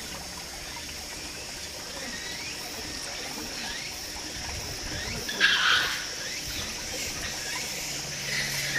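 Outdoor animal ambience: scattered short chirps over a steady high-pitched drone, with one louder, noisier burst about five and a half seconds in.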